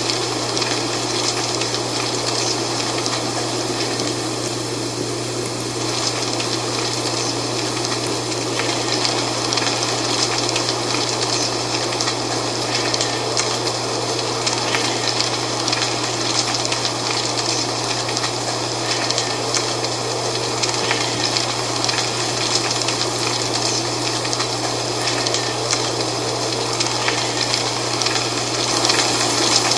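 Dry fall leaves rustling in steady wind, a continuous crackling hiss with a low steady hum beneath it.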